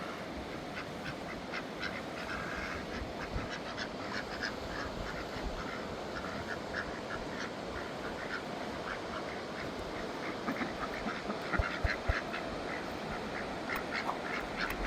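Steady rush of river water under many short, rapid animal calls repeating throughout.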